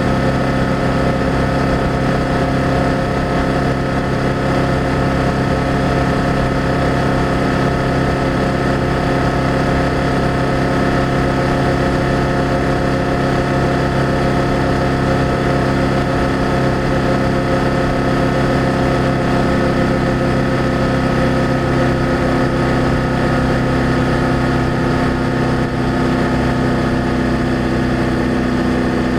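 BMW F800GS parallel-twin engine and exhaust running at a steady cruising speed, heard on board the motorcycle, with a slight drop in engine pitch near the end.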